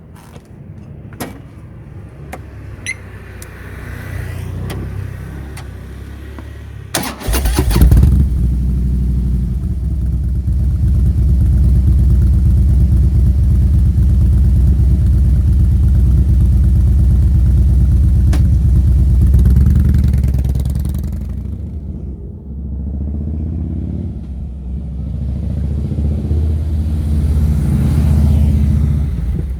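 Harley-Davidson Fat Boy's 103-cubic-inch (1690 cc) V-twin with a Supertrapp muffler starting about seven seconds in, after some clicks. It then runs with a loud, deep, steady exhaust note that dips briefly about two-thirds of the way through and builds up again near the end.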